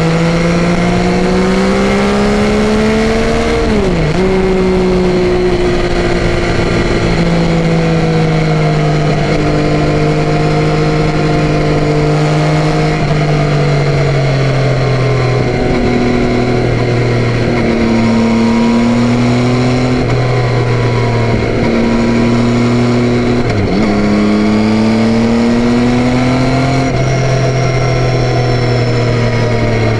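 Yamaha Tracer 9's 890 cc inline three-cylinder engine pulling under way, its pitch climbing as it revs and dropping sharply at gear changes about four seconds in and again near the end, with slower falls as it eases off in between. Steady road and wind noise runs underneath.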